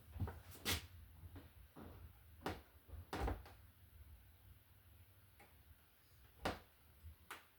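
Scattered light clicks and knocks, about five in all, from hand work with tools and wiring at a wall receptacle box.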